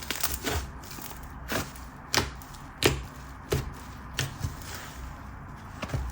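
Soft, airy whipped-texture slime being stretched and squished by hand, giving sharp irregular pops and clicks about once or twice a second as air pockets burst.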